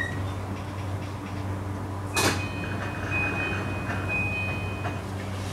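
E235-series electric train standing at a station, its onboard equipment giving a low steady hum. About two seconds in there is one short, sharp burst of noise, followed by a thin, steady high tone lasting a couple of seconds.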